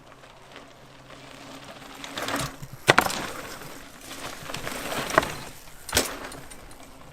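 Mini mountain bike riding the dirt jumps: tyres rolling on packed dirt, with sharp knocks from landings or the frame, the loudest about three seconds in and two more around five and six seconds.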